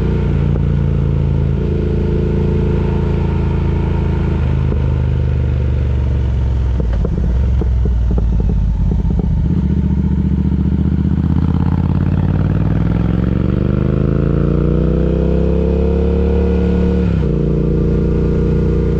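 Triumph Speed Twin's parallel-twin engine idling, with a rougher, clattering stretch partway through. It is then revved slowly over a few seconds, held high, and drops back to idle near the end.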